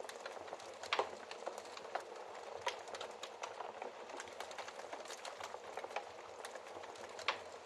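Fireplace fire crackling: a steady soft hiss with frequent small snaps and a few louder pops, about a second in, near three seconds, and near the end.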